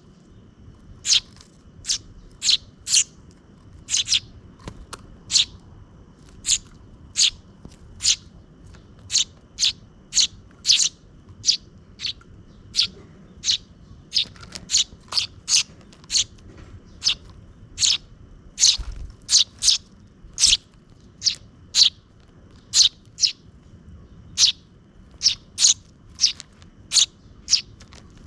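Sparrows chirping: short, sharp chirps repeated over and over, about one or two a second, over a faint low background rumble.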